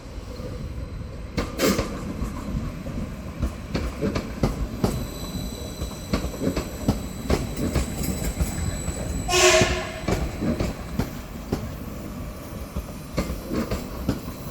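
Transport for Wales class 756 Stadler FLIRT multiple unit pulling into the platform, its wheels knocking over rail joints, with a thin high whine joining about five seconds in. A short horn blast sounds about halfway through.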